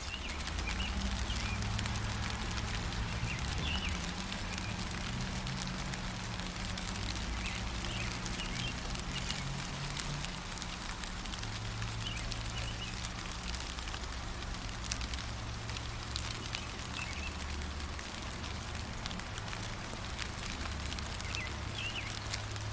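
Steady gentle rain with a dense patter of drops, while small birds chirp in short calls now and then. A low rumble runs underneath.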